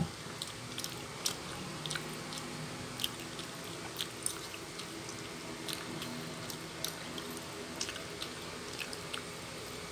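Close-up eating sounds: chewing of green noodles with scattered wet mouth clicks and smacks, over a faint steady low hum.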